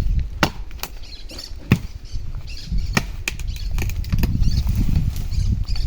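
Low rumbling and rustling noise, with a few sharp knocks in the first two seconds.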